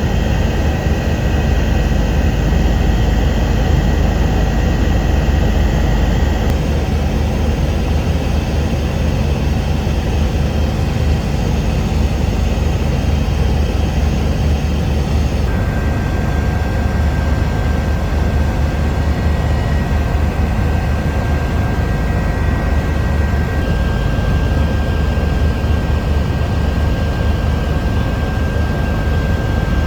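Eurocopter EC145 twin-turbine helicopter in flight: a loud, steady rumble with a thin high whine above it. The sound changes abruptly twice, about six and fifteen seconds in.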